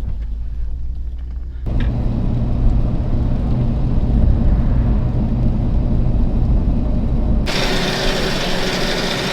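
Toyota Tundra pickup driving on the road: steady low engine and road rumble inside the truck. It changes abruptly about two seconds in and again near the end, where a loud steady hiss takes over.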